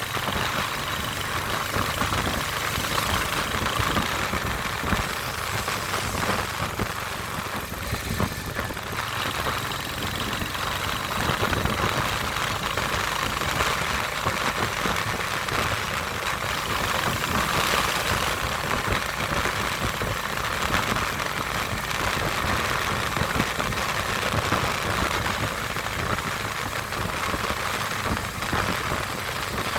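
Royal Enfield Hunter 350's single-cylinder engine running steadily.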